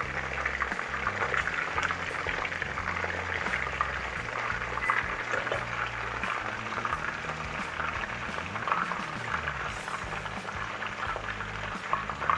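Chicken pieces frying in hot oil in a pot: a steady, dense crackle and sizzle as they brown.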